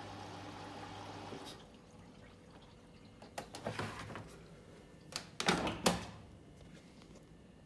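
Samsung washing machine starting its cycle: a low hum that stops about a second and a half in, then two short bouts of rushing, water-like noise, the second the loudest.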